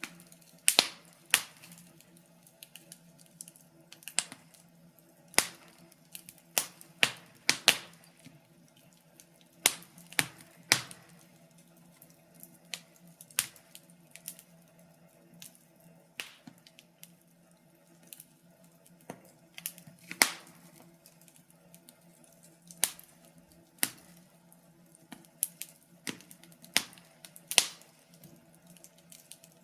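Wood fire crackling in a fireplace: irregular sharp pops and snaps, sometimes in quick clusters and sometimes a second or two apart, over a faint steady low hum.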